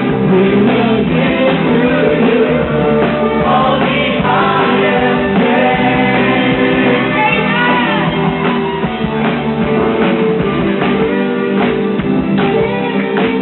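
Live worship music: voices singing over guitar and drums with a steady beat.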